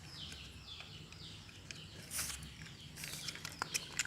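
A bird chirping repeatedly in the background, short falling high notes about two a second. Near the end, a quick run of small sharp clicks and taps.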